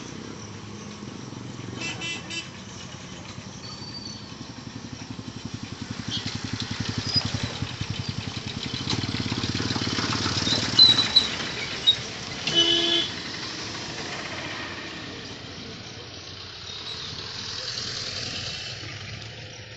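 A passenger train running past, its noise swelling to a peak around the middle, over the steady running of motorcycle engines waiting at the crossing. Short horn beeps sound about two seconds in and again about thirteen seconds in.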